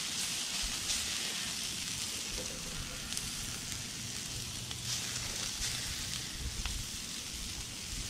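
Shredded hash browns and ground meat frying on a Blackstone flat-top griddle: a steady sizzling hiss with a few small pops of spattering fat.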